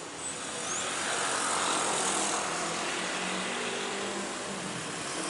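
A diesel-hauled passenger train running past: a steady rumble of wheels on rail with a low engine hum, growing louder about a second in and holding.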